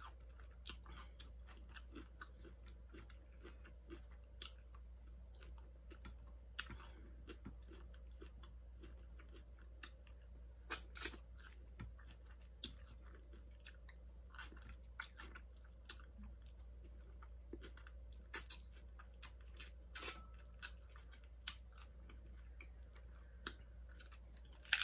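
Close-up chewing and crunching of a hard-shell taco: irregular crisp crackles of the fried shell breaking between the teeth, with wet mouth sounds. A steady low hum runs underneath.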